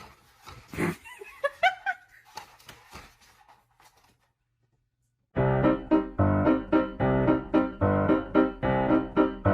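A few faint knocks and a short wavering pitched sound, then a moment of silence, and about five seconds in, piano music starts with a steady run of struck notes and carries on.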